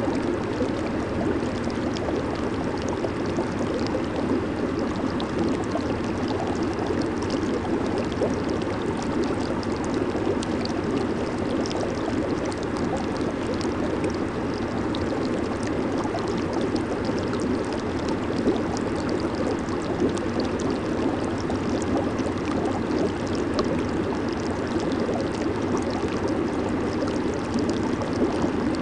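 Jacuzzi water churning steadily under its jets, a continuous bubbling and gurgling rush with fine fizzing from bursting bubbles.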